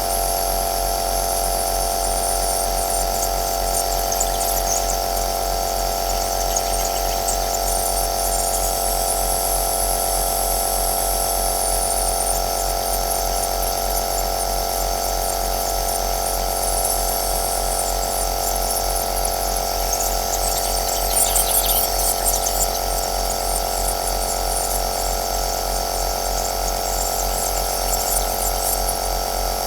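Compressor nebulizer running steadily: a motor hum with several fixed tones under a hiss of air through the nebulizer cup. Fine crackling sputters run through the hiss and briefly grow louder a little after the middle.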